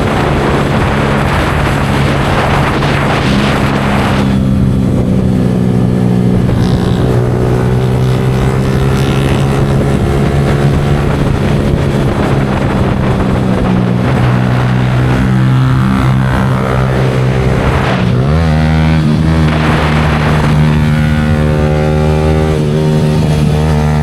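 Yamaha R15 V4's single-cylinder engine through an aftermarket Leo Vince exhaust, running steadily under way. The note drops and then climbs again about 18 seconds in, with wind rushing over the microphone at times.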